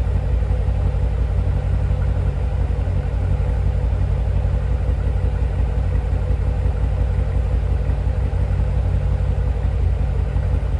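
2015 Chevrolet Corvette Stingray's 6.2-litre LT1 V8 idling steadily with a deep exhaust rumble, soon after a cold start.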